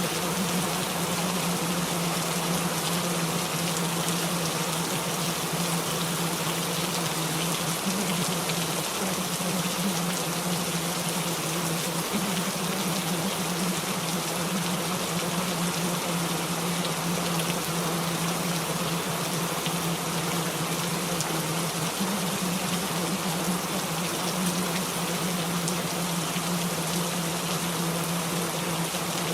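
Steady rain recording, an even hiss of falling rain, with a constant low hum running underneath.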